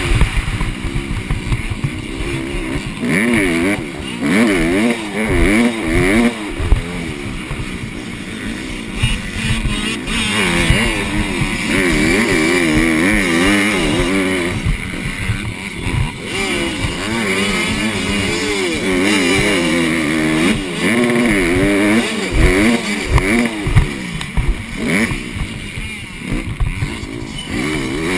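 Honda CRF150R supermini motocross bike's single-cylinder four-stroke engine being ridden hard on track, its pitch rising and falling constantly with throttle and gear changes. Wind buffets the helmet-mounted microphone.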